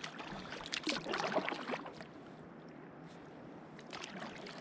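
Water sloshing and lapping around a canoe, with a short stretch of splashing and handling noise about a second in, a quieter lull, then a few sharp knocks near the end.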